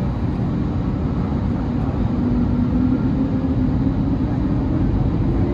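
Cabin noise inside an Airbus A320neo: a steady rumble of engines and airflow. A low hum rises slightly in pitch about two seconds in.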